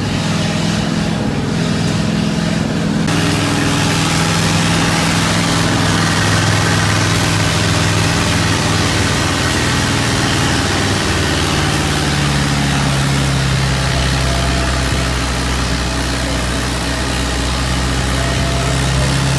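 Motor vehicle engine running steadily, heard from aboard, with a constant rushing noise of travel; the engine note changes pitch about twelve seconds in.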